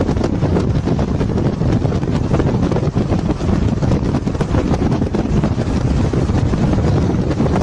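Loud wind buffeting on the microphone over the steady rumble of a moving vehicle.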